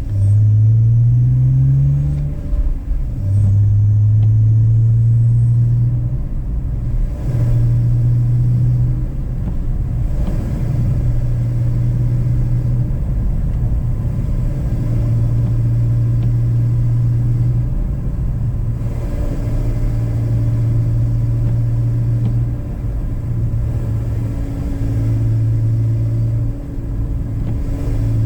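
BMW E46 inline-six engine with a K&N cone intake, climbing in revs for about two seconds, then cruising at low steady revs. The note fades and returns several times as the throttle is eased off and back on, over a steady low road rumble.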